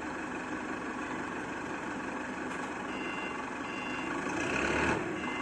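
A truck's engine running steadily, with a reversing alarm starting to beep about three seconds in, roughly one beep every 0.7 seconds. Just before the end, a louder rush of noise swells and cuts off suddenly.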